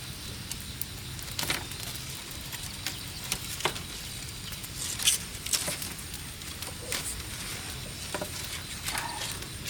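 Irregular crackling with scattered sharp pops from the cooking fire and the pork over it.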